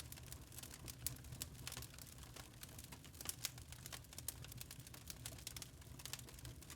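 Log fire crackling in a fireplace: many irregular small pops and snaps, a few of them sharper, over a low steady rumble.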